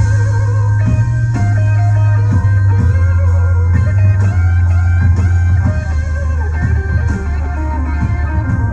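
Blues played on electric guitar over a steady, deep bass line, with picked notes and some bent notes.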